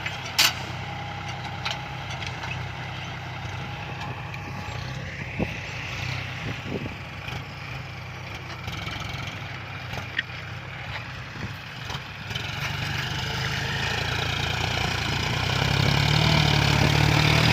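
Diesel engine of a John Deere farm tractor running steadily under load while pulling a disc plow, growing louder as it comes closer near the end. A few sharp knocks sound over it.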